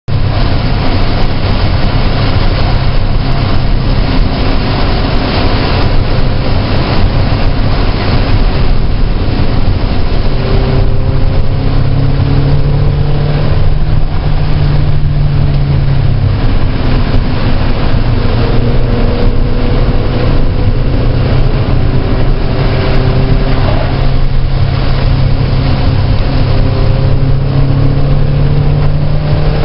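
Car engine running hard on a race track, its revs rising and falling as the driver accelerates, brakes and shifts. A loud, steady rush of wind and wet road noise runs underneath.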